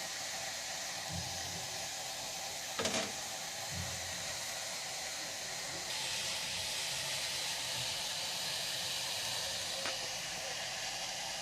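Steady hissing noise that grows louder and brighter about six seconds in, with a single short knock about three seconds in.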